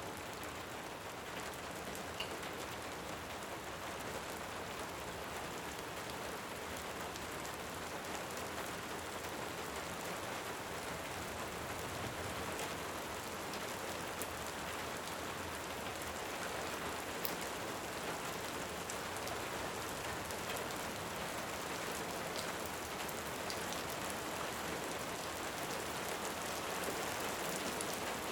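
Steady rain falling, an even hiss with no break, with a few faint sharp crackles of a wood fire now and then.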